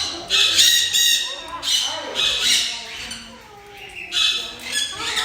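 Parrots squawking: a series of about four harsh, screechy calls.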